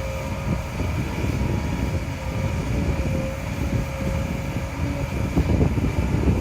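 Kobelco SK200 hydraulic excavator's diesel engine running steadily under load as it digs and loads soil, with a thin steady whine over the low rumble.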